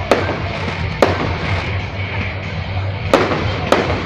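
Fireworks salute shells bursting in the sky: four sharp bangs, one at the start, one about a second later and two close together near the end, with music playing in the background.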